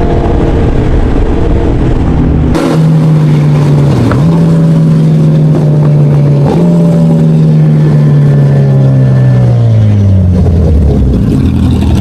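Motorcycle engine running loud, its note changing abruptly a couple of seconds in, then falling and jumping back up in a downshift about six and a half seconds in. Near the end the revs slide steadily down as the bike slows hard.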